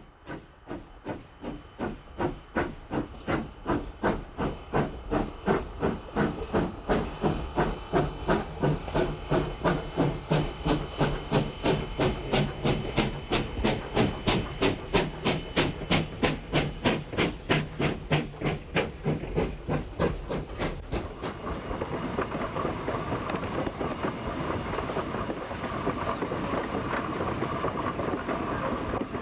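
Steam locomotive No. 28, a 1922 Baldwin 2-8-0, pulling away with a train. Its exhaust chuffs start slow and quicken to about four a second, then about twenty seconds in they blur into a steady rushing sound as the train gets up speed.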